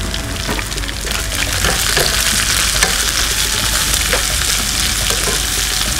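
Chicken with chopped bell peppers and onion sizzling in a frying pan, with the clicks and scrapes of a spatula as they are stirred. The sizzle grows louder about a second in.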